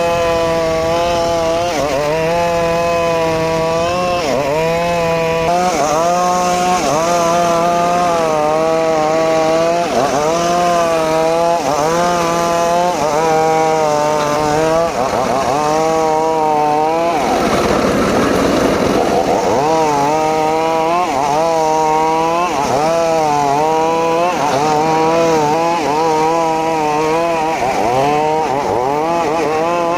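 Homemade circular saw cutting mahogany, its drive running loud with a pitch that dips and recovers every second or two as the blade works through the wood. About halfway through, the steady tone briefly gives way to a rougher, noisier stretch.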